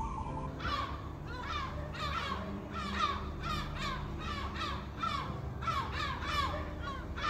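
A bird calling over and over, about two falling calls a second, over a steady low hum.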